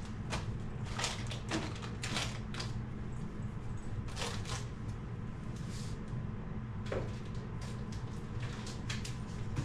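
Frozen food bags and plastic storage bins being handled: scattered short rustles, knocks and clicks over a steady low hum.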